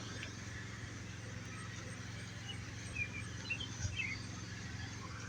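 Quiet outdoor background: a steady low hum, with a few faint short high chirps about three to four seconds in.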